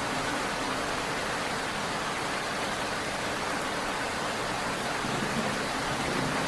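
Steady rain falling, an even, unbroken hiss of drops with no separate strikes or thunder.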